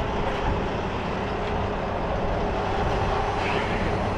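Semi-truck diesel engine idling, a steady running sound with a low, even hum.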